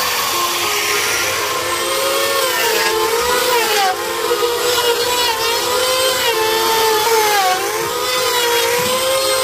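Electric power tool's motor running while cutting wood, its whine sagging in pitch and recovering every second or two as it takes load.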